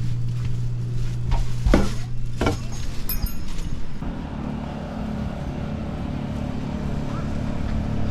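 A motor hums steadily, and its pitch changes about four seconds in. Two sharp knocks come about two and two and a half seconds in.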